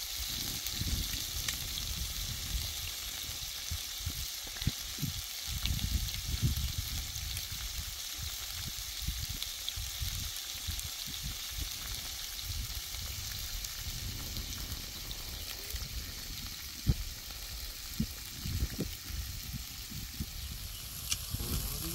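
Food frying in a pan: a steady sizzling hiss, with irregular low thumps underneath.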